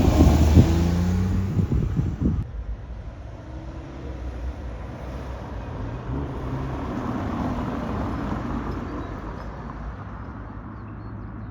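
A classic car drives past close by, its engine loud at first with the pitch falling as it goes by. About two and a half seconds in, it drops away to a quieter, steady engine rumble.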